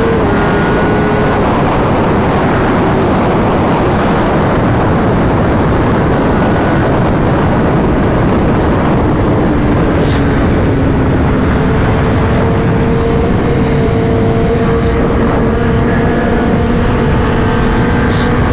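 Superbike engine running at a steady cruise under a heavy, even rush of wind noise, its faint note drifting only slightly in pitch.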